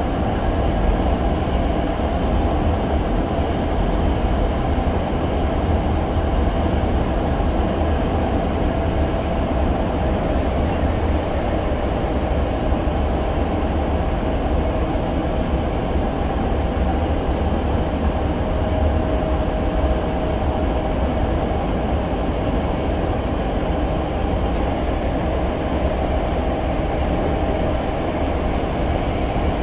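Running noise inside a Hankyu 6300 series railcar: a steady, even rumble of wheels on rail and car body, with a faint steady whine from the running gear.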